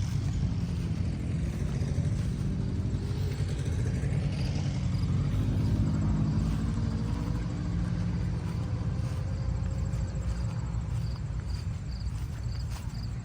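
An engine running steadily with a low rumble, a little louder around the middle.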